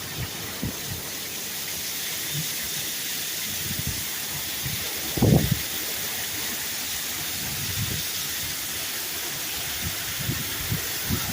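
Heavy downpour: a steady, even hiss of pouring rain, with a few low thuds and one louder low bump about five seconds in.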